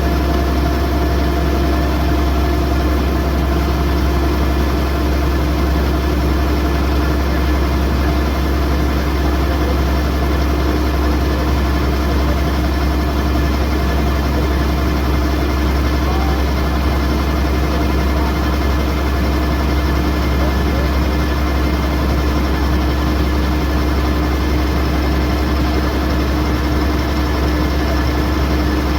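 Kubota DC108X combine harvester's diesel engine running at a steady speed: a deep, unchanging drone with a steady whine above it.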